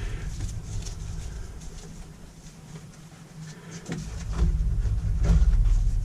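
Clicks and knocks of hand tools and plastic parts being handled while a strimmer's fuel tank is taken off, over a low rumble that grows louder about four seconds in.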